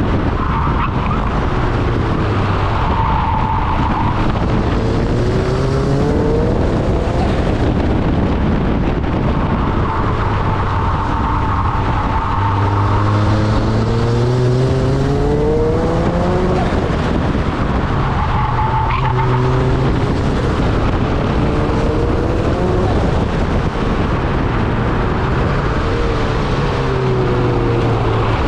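Turbocharged Mazda MX-5's four-cylinder engine driven hard on track, its pitch repeatedly climbing under acceleration and dropping off between, with tyres squealing through the corners.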